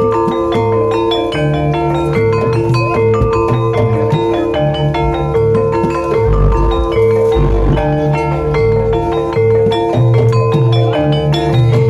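Javanese gamelan music for ebeg: struck metal-keyed instruments play a quick, dense melody over a steady ringing note, with low drum strokes throughout.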